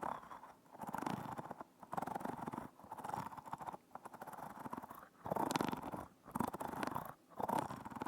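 Close-miked rubbing and crackling worked against a binaural microphone in strokes about once a second, with short pauses between.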